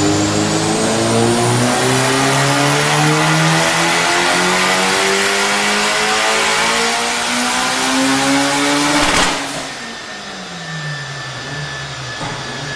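Mitsubishi Lancer Evolution's turbocharged inline-four accelerating hard, its pitch climbing steadily for about nine seconds with a thin high whine rising above it. About nine seconds in there is a sharp crack, and then the engine note falls away and goes quieter.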